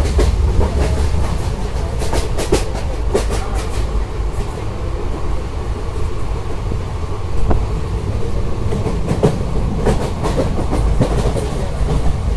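Passenger train running along the track, heard from aboard: a steady heavy rumble with clusters of sharp clickety-clack clicks from the wheels, about two seconds in and again near ten seconds.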